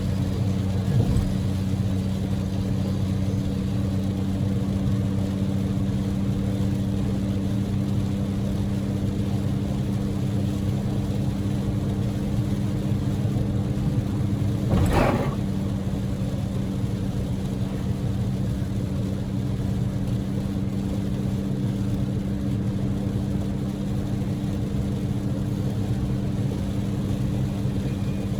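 Daihatsu Move L150S's three-cylinder EF-VE engine droning steadily at cruising speed, heard with the car's road noise under a haze of heavy rain and wet tyres. About halfway through comes one brief sharp swoosh that falls quickly in pitch.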